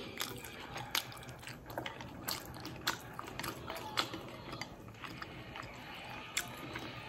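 A person chewing and eating hand-pulled noodles close to the microphone, with irregular sharp clicks and mouth sounds scattered through the chewing.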